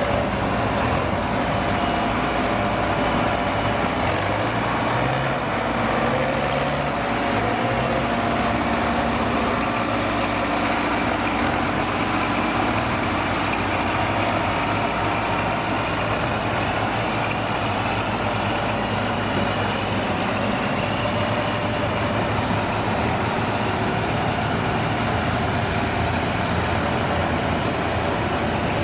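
Heavy truck engine running steadily, its pitch shifting now and then as the engine speed changes.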